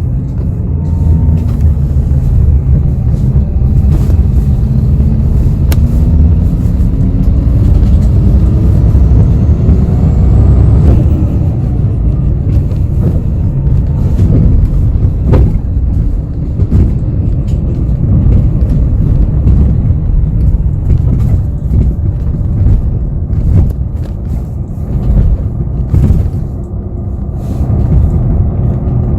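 Heard from inside a city bus: heavy engine and road rumble. A whine rises in pitch over the first ten seconds or so as the bus speeds up, with scattered rattles and knocks from the cabin.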